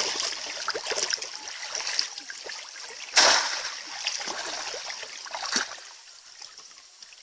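Water splashing and sloshing, with one loud splash about three seconds in and a smaller one a couple of seconds later, then dying down near the end.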